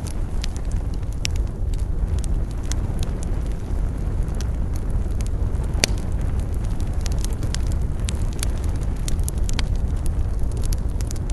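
Wood campfire burning with a steady low rumble and irregular crackles and pops from the burning wood, a few louder pops standing out.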